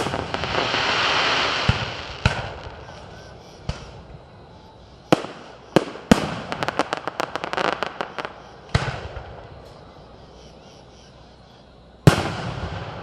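Fireworks display: sharp bangs of aerial shells bursting, the first followed by a couple of seconds of crackling fizz. A rapid run of crackles comes in the middle, and single booms follow near the end.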